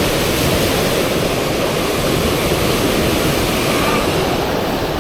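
Fast river water rushing steadily over the Eisbach's standing wave, a constant loud roar of flowing water.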